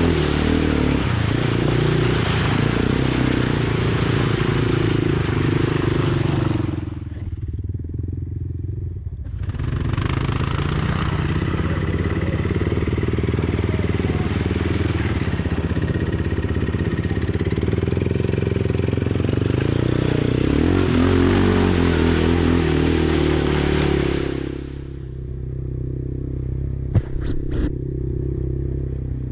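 Kymco Maxxer 300 quad engine running hard under throttle, then easing off to a lower, quieter run twice, about seven seconds in and again near the end. A few sharp clicks sound near the end.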